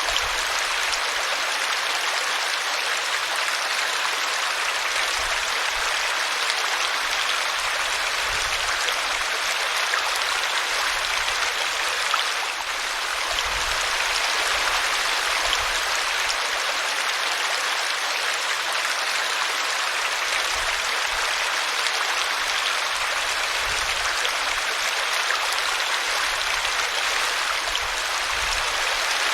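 Small brook running steadily, its water splashing and trickling over a tree root in an even, continuous rush.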